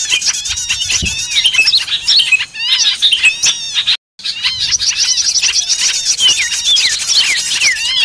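A dense chorus of many small birds chattering, chirping and trilling at once, the kind of noisy flock recording played as a lure to bring wild small birds down. The calls overlap in quick, high notes with a fast trill near the end, and the sound cuts out for a split second about halfway through.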